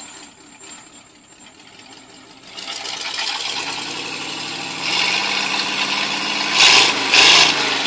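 A 1937 Ford flathead V8, fitted in a 1948 Ford 8N tractor in place of its stock engine, running with a fast, even beat. It comes up loud about two and a half seconds in, grows louder, and is revved in short bursts near the end.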